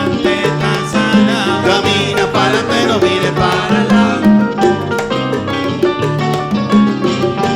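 Salsa music: an instrumental passage of the band with a steady percussion beat under the instruments.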